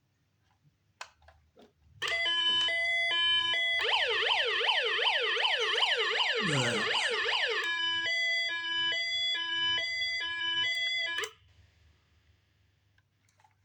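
Electronic toy siren of a 1989 Hess fire truck sounding. About two seconds in it starts with an alternating high-low two-note pattern, switches to a fast rising-and-falling wail of about three sweeps a second, returns to the two-note pattern, then cuts off suddenly about eleven seconds in.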